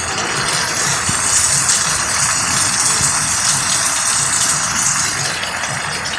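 Heavy rain pouring down in a strong thunderstorm: a loud, steady hiss that swells a little about a second in and eases slightly near the end.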